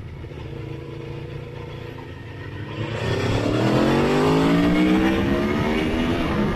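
Motorcycle engine running steadily, then about three seconds in the throttle opens and the revs climb, rising in pitch and growing louder, until a gear shift right at the end.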